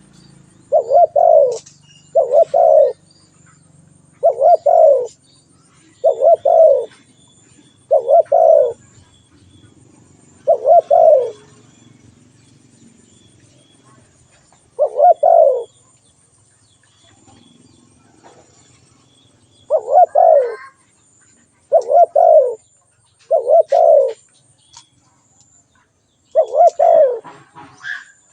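Spotted dove calling: loud, repeated short cooing phrases of paired notes, about every two seconds, with a longer pause partway through.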